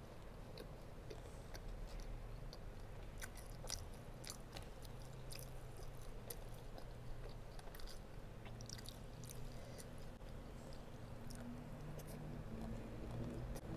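A person chewing a mouthful of rice and chicken, eaten by hand, with small wet clicks and smacks of the mouth. A low closed-mouth hum comes near the end.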